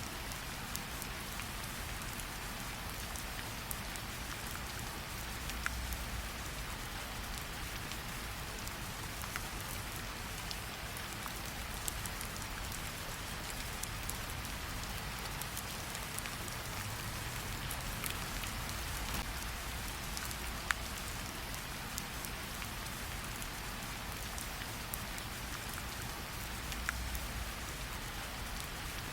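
Steady rain with a campfire: an even hiss of falling rain, with a few sharp pops of fire crackle scattered through.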